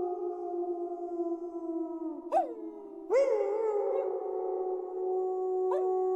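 Several wolves howling together in long, overlapping held notes. A short sharp call comes about two and a half seconds in, a fresh howl breaks in just after three seconds, and another short call comes near the end.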